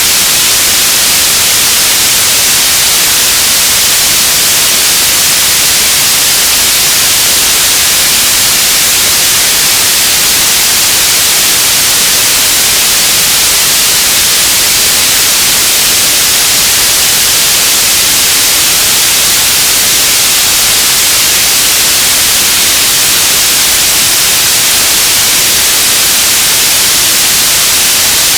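Radio static: a loud, steady hiss, strongest in the highs, with no tones or breaks.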